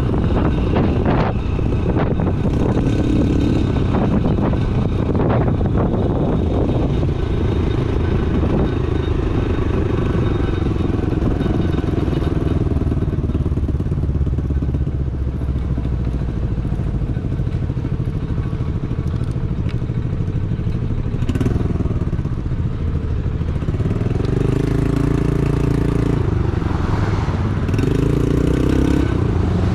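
Honda Navi's small single-cylinder four-stroke engine running while the mini bike is ridden along the road, its pitch shifting up and down near the end as the throttle changes.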